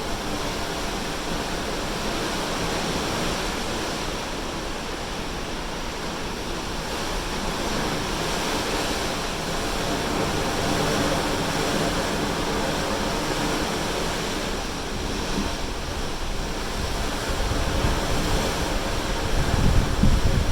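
Ocean waves washing along the side of a moving cruise ship, heard from high on deck as a steady, even rush of water noise. Wind buffets the microphone with low rumbling gusts in the last few seconds.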